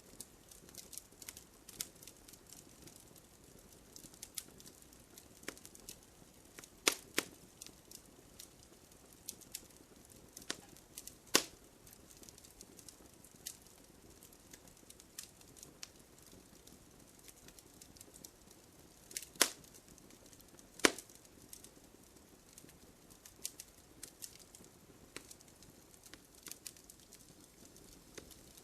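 Wood campfire crackling: an irregular run of small snaps and ticks over a soft low hiss of flame, with four louder sharp pops spread through.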